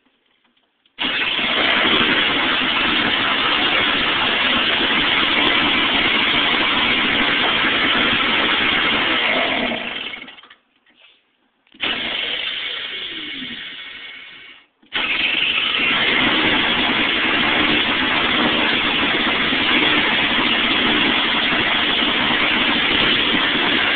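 Toro snowblower engine cold-started with its electric starter: it catches about a second in and runs, slows and dies about ten seconds in, fires again and sags away, then starts a third time and keeps running steadily.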